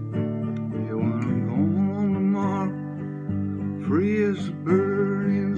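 Acoustic guitar strummed in a country-folk song's instrumental break, with a gliding melody line rising and falling over the chords twice.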